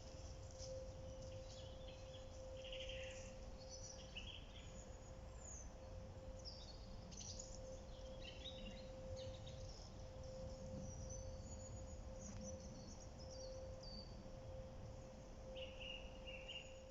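Faint outdoor ambience: scattered short bird chirps over a low steady rumble, with a faint steady hum.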